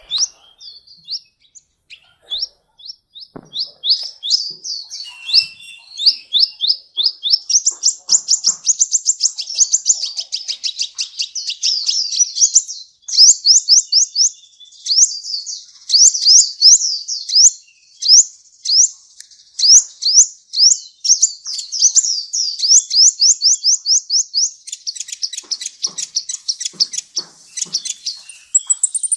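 Sunbird singing a long, rapid, high-pitched chattering song of quick sweeping notes, several a second, broken by a couple of brief pauses.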